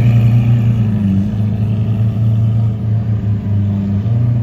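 Car engine running loud at a steady low pitch, with a couple of brief small dips in its note.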